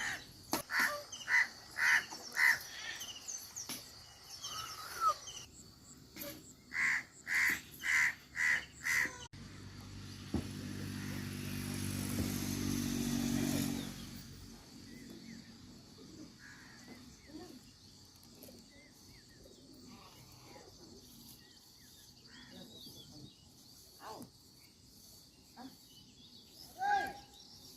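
Bird calls: two runs of loud repeated calls, about two a second, in the first nine seconds. After an abrupt change, a rushing noise with a low hum swells for a few seconds and stops, followed by faint scattered chirps.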